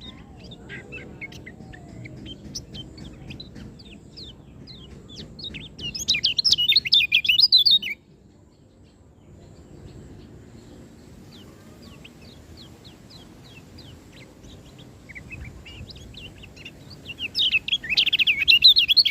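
White-eye (kecial/pleci) singing: a series of thin, high, quick chirps, then a loud, rapid warbling song for about two seconds some six seconds in, and again near the end.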